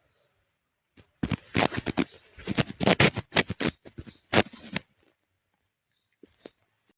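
A rapid, irregular run of sharp clicks and taps lasting about four seconds, then two fainter taps near the end.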